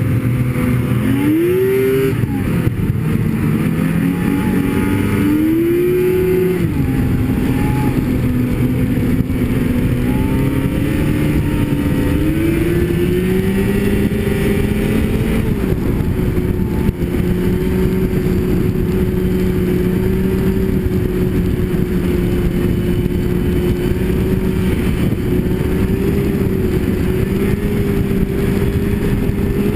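Snowmobile engine under way, revving up and dropping back a few times in the first half, then holding a steady cruising note through the second half.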